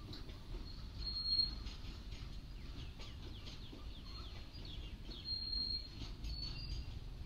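Freight train of loaded flatcars rolling past, a steady low rumble of wheels on rail. A few brief high squeaks sound on top, about a second in and again near the end.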